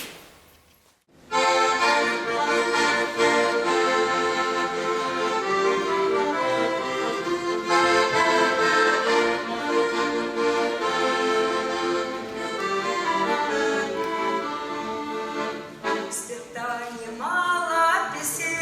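Accordion playing an instrumental introduction to a folk song, starting about a second in after a short pause. Near the end a singing voice comes in over it.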